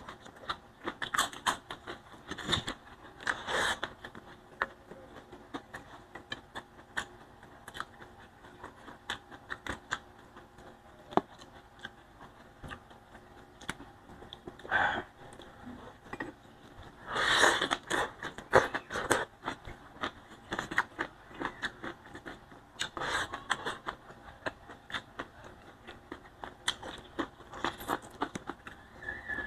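Close-up eating sounds: a person chewing boiled vegetable shoots and rice, with many small wet clicks and lip smacks and several louder bursts now and then.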